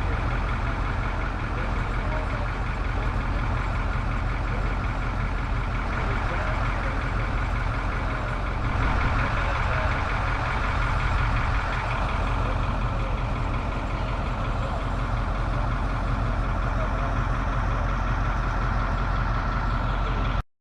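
Mobile crane's engine running steadily.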